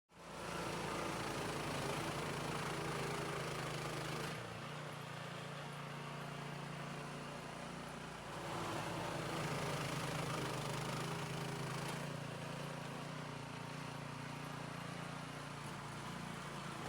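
Troy-Bilt Storm 2410 two-stage snowblower's small gas engine running steadily, its level stepping down slightly about four seconds in and back up about four seconds later.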